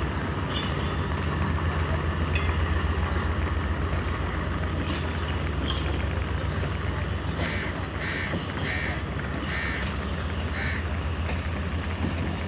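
Passenger coaches of a departing train rolling past at low speed: a steady low rumble and hum with a few short clicks. In the second half a crow caws about five times.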